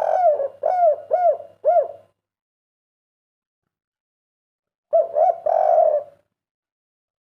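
Spotted dove cooing, a bird of the 'kuk 3' song type: a run of short arched coos ending about two seconds in, a pause, then another coo phrase about five seconds in.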